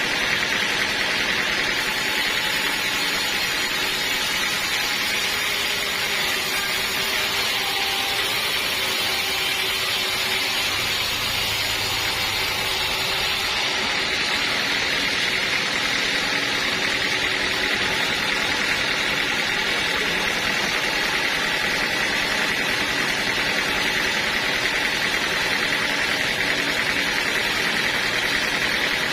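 Sawmill machinery running steadily: a continuous mechanical noise with a steady high whine, unbroken throughout.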